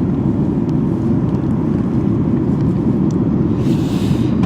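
Steady low rumble of an airliner cabin in cruise flight, heard from inside the cabin. A brief hiss near the end.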